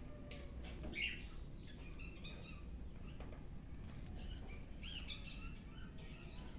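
Small birds chirping, short high chirps scattered through, the clearest about a second in and again near five seconds, over a steady low background hum.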